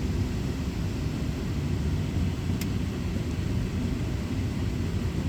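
Steady low rumble with no clear pitch, holding an even level, with one faint tick about two and a half seconds in.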